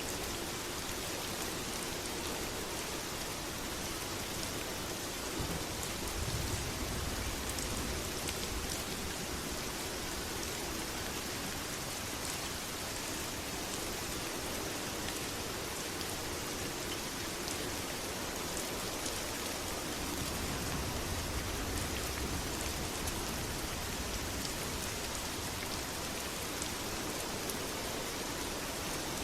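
Steady heavy rain pouring down, with low rumbles of distant thunder swelling twice, about five seconds in and again about twenty seconds in.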